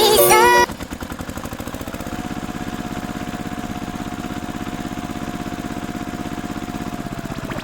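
A song cuts off just under a second in, giving way to a vehicle engine idling with a steady, fast chugging beat. A faint steady whine runs over the engine from about two seconds in.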